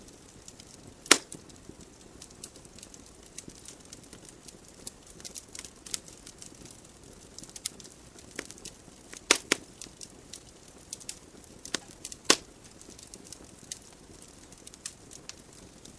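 Burning wood logs in a fireplace crackling, with a soft hiss under frequent small snaps. Sharp loud pops come about a second in, twice around nine seconds, and once around twelve seconds.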